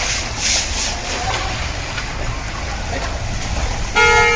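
Heavy rain falling onto a flooded street: a steady hiss of rain and water with a low rumble, swelling briefly about half a second in. Near the end a vehicle horn starts sounding one steady note.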